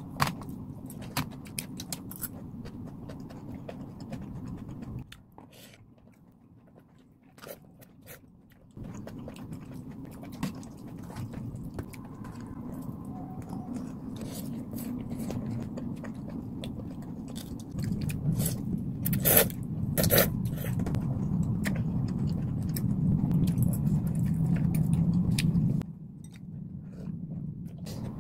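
Close-miked chewing and mouth sounds of a person eating noodles and fried pork, with short clicks of chopsticks and food. There is a quieter pause about five seconds in.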